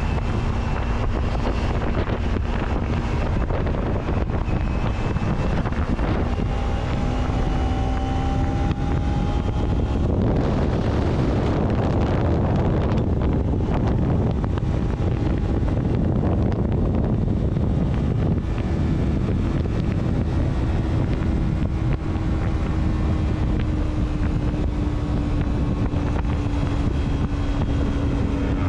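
A vehicle on the move: a steady wash of wind and road noise with the engine hum underneath, its pitch slowly rising and falling with speed.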